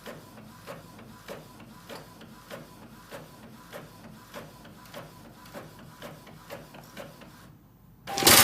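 A small machine running with a regular clicking, about three or four clicks a second, over a faint steady whine; it fades out, and near the end a sudden loud noise breaks in.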